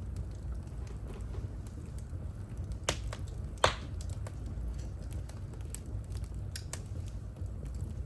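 Wood fire in a fireplace crackling, with scattered small clicks over a low steady rumble. Two sharp pops about three seconds in, the second the loudest, with a brief hiss after it.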